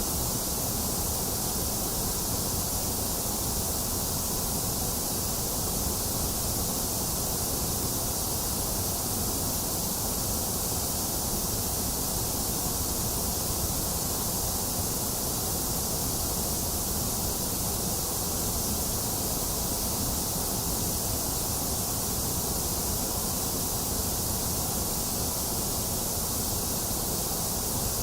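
Steady, unchanging white noise hiss, generated for sleep and focus, with no variation or events. It is strongest in the high and low ranges, with a hollow in the upper middle.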